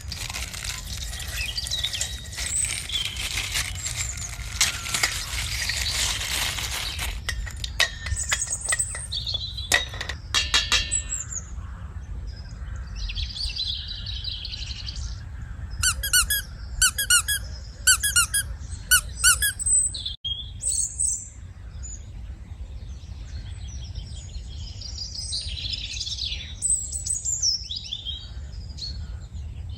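Outdoor ambience with small birds chirping and calling over a low steady rumble, with a run of quickly repeated call notes about two-thirds through. A rushing, hissing noise fills the first several seconds and then stops.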